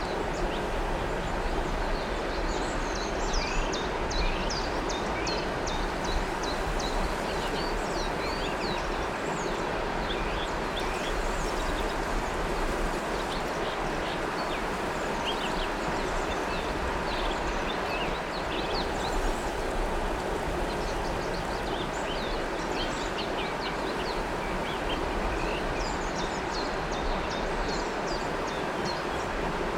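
River water flowing steadily, with small birds chirping in quick short notes over it, in busier clusters every so often.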